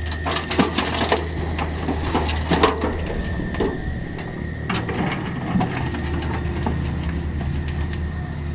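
Cat 305.5E2 mini excavator running steadily under a thin high whine, while its bucket scrapes and clatters through soil and stones. A cluster of sharp knocks and crunches falls in the first three seconds, with a few more about five seconds in.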